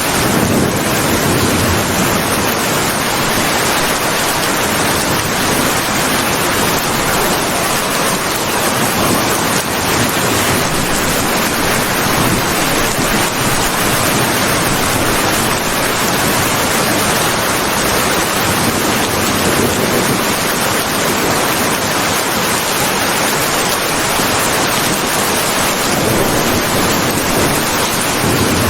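Heavy rain falling in a steady, dense hiss with no breaks or thunderclaps.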